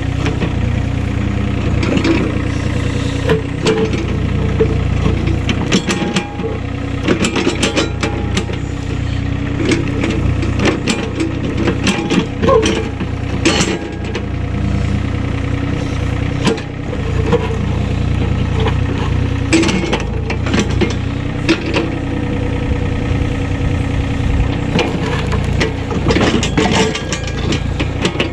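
An engine of a work machine running steadily at a low hum, with frequent short knocks and clatter on top as material is moved.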